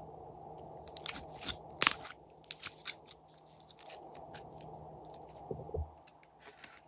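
Slime being worked by hand, with irregular crackling pops and clicks. The loudest pop comes about two seconds in, and there is a softer group with a dull thud near the end.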